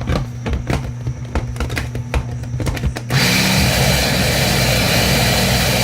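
Light clicks and knocks. About three seconds in, a food processor starts and runs steadily, blending tomatillo salsa.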